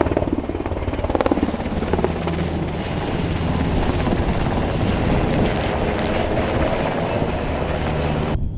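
Helicopter in flight: a steady low rotor and engine drone over a loud rush of noise. It cuts off abruptly near the end.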